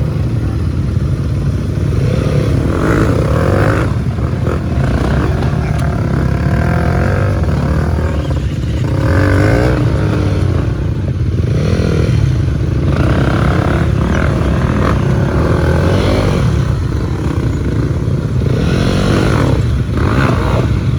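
Motorcycle engine running on the move, a steady low rumble with its pitch shifting now and then.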